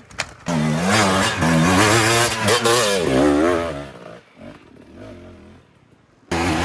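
KTM 300 XC-W two-stroke single-cylinder dirt bike engine revving up and down on the throttle while trail riding, its pitch rising and falling. About four seconds in, it drops to a much quieter low running sound, then comes back loud suddenly near the end.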